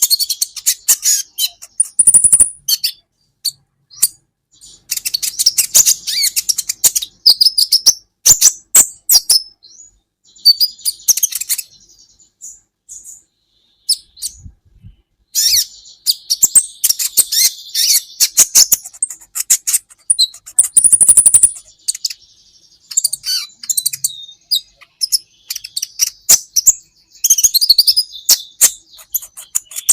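Kolibri ninja sunbird singing: rapid, high, thin chirps and twittering trills in bursts, with a few seconds' pause near the middle.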